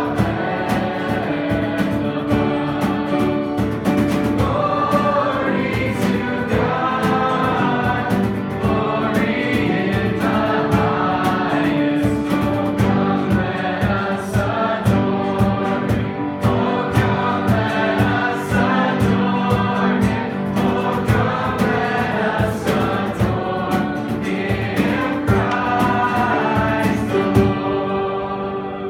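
Worship music: several voices singing a gospel-style song together over a band with a steady drum beat. It dies away near the end.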